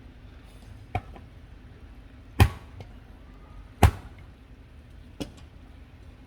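Four sharp knocks, evenly spaced about a second and a half apart, the middle two much louder than the first and last.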